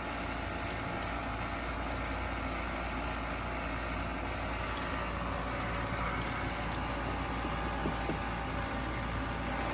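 Steady background hum and hiss of room noise, with a few faint light clicks.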